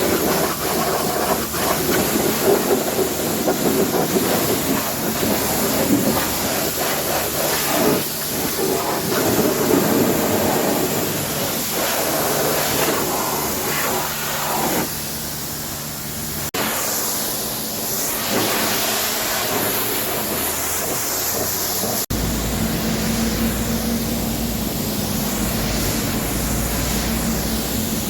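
High-pressure water spray hissing against a truck's body. The sound changes abruptly twice, just past halfway and again about three-quarters through, after which a low steady hum runs under the spray.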